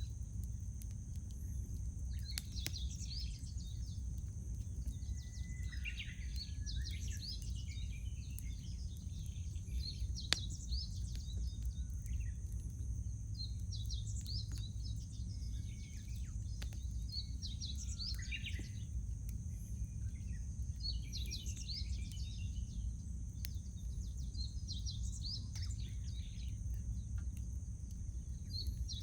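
Songbirds singing short phrases that slide downward, repeating every few seconds, over the scattered pops and crackles of a wood campfire, with one louder pop about ten seconds in. A steady high hiss and a low rumble run underneath.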